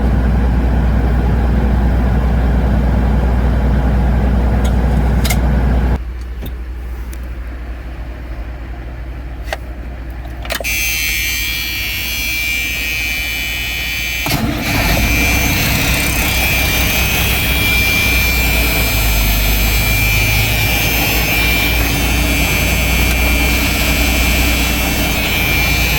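Diesel dump truck engine idling steadily, the sound changing abruptly several times between quieter and louder sections, with a high steady whine in the later part.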